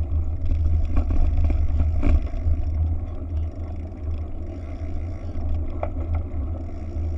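Wind buffeting the microphone, a deep, steady bass rumble, with a few light clicks about a second, two seconds and six seconds in.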